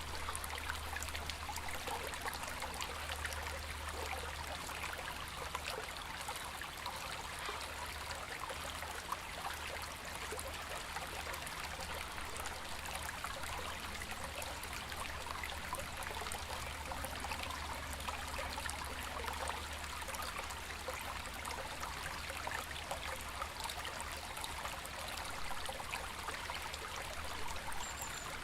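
A shallow river babbling steadily, with a low rumble underneath.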